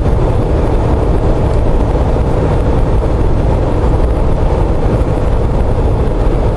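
Steady engine, road and wind noise inside the cab of a Jeep Wrangler JK with a swapped-in Chevy 5.3-litre LS V8, cruising at highway speed on cruise control.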